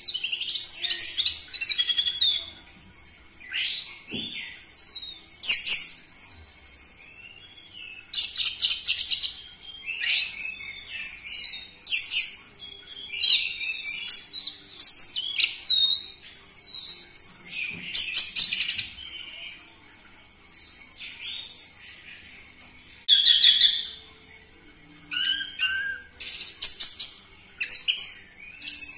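Orange-headed thrush singing a loud, varied song of short sweeping whistles and fast chattering trills, in phrases every second or two with brief pauses between them.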